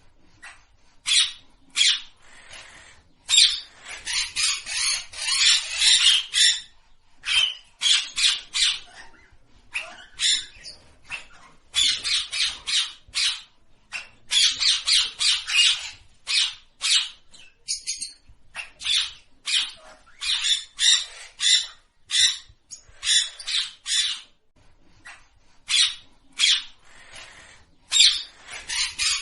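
Parrots chirping and squawking in quick runs of harsh, high calls, with brief pauses between the runs.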